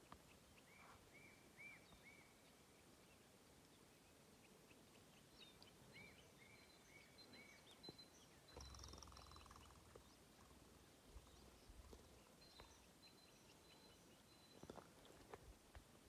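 Near silence outdoors, with a distant songbird singing a short phrase of four or five rising-and-falling notes twice, and a thinner high note repeating faintly. A brief low rumble comes about halfway through.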